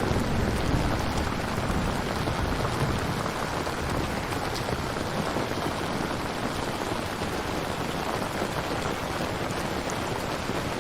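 Steady rain falling, an even hiss of drops, with a deeper rumble under it in the first few seconds that then eases.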